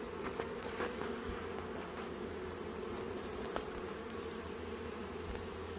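Steady buzzing hum of many honey bees around an open hive, with a few faint clicks.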